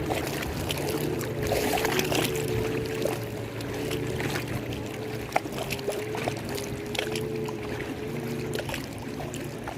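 Lake water lapping and sloshing, with scattered small splashes and clicks, over a steady low hum.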